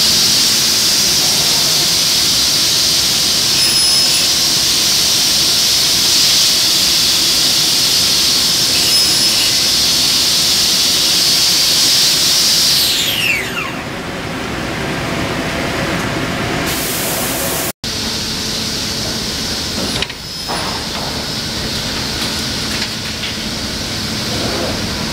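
CNC router spindle running at full speed with a steady high whine, then winding down with a falling whine about 13 s in. After that, lower steady machine running noise.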